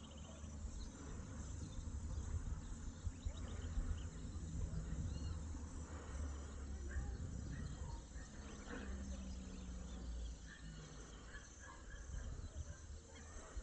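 Outdoor nature ambience with insects chirping, a few short high chirps, and a steady low rumble underneath that is the loudest part.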